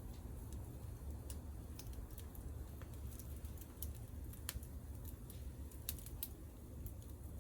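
Wood fire crackling, with sharp irregular pops and snaps scattered through, over a low steady rumble.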